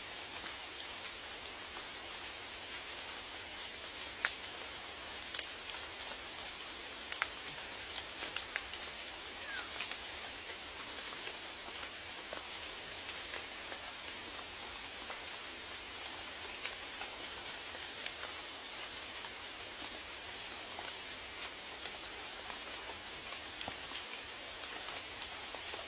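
Steady rain falling, with individual drops ticking sharply on a nearby surface every now and then.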